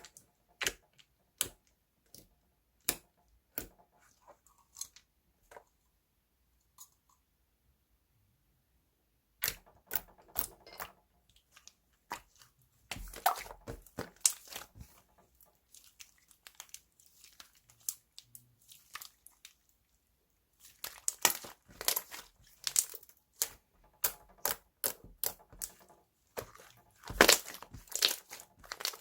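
Slime being worked by hand, giving irregular sharp clicks and crackles. The sounds come sparsely at first, stop for a couple of seconds, then return denser and louder, with another short pause about two-thirds of the way through.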